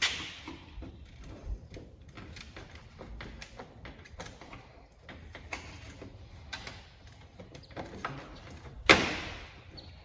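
Scattered plastic clicks and knocks of push-tab retainers being worked out of a truck grille with a flathead screwdriver, with one sharp, louder knock about nine seconds in.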